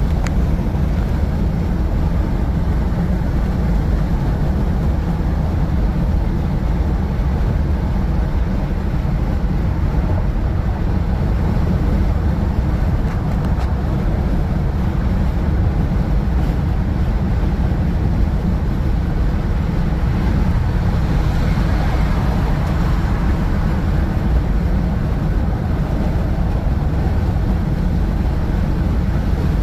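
Steady road noise inside a moving car's cabin: tyre and engine rumble, with a brief rise in hiss about three quarters of the way through.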